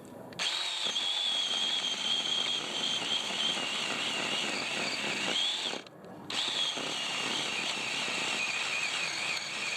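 Ryobi 18-volt cordless chainsaw's electric motor running with a high whine that wavers slightly in pitch, cutting a tree stump. It stops about six seconds in and starts again about half a second later.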